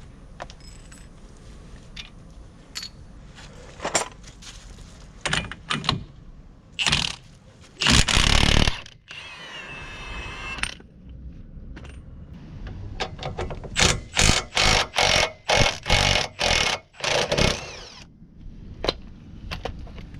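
Mechanic's tools at work on a van's front end: scattered clinks and knocks, a loud rushing burst about eight seconds in followed by a brief whine, then a run of about nine short rasping strokes, roughly two a second.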